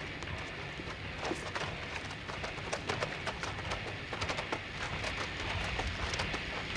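Hoofbeats of several horses moving at pace on hard ground: many quick, irregular clip-clops that grow denser after about a second, over a steady hiss.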